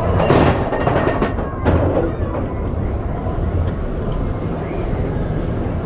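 Roller coaster train rolling along its track: a steady rumble, with several sharp clacks and a noisy surge in the first two seconds.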